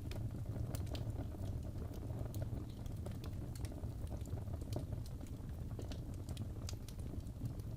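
Wood fire burning in a fireplace, with a steady low rumble of the flames and irregular sharp crackles and pops of the burning wood.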